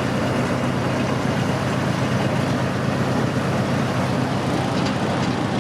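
Train running, heard from aboard the moving train: a steady rumbling noise with a low hum.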